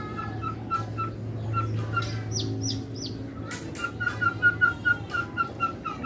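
Caged songbird calling: a rapid run of short, repeated whistled notes, about four a second, broken by three quick falling whistles in the middle. A low steady hum runs underneath.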